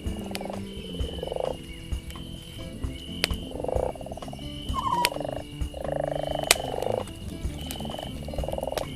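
Frogs croaking over and over in rattling calls of half a second to a second each, with a few sharp pops from a crackling campfire.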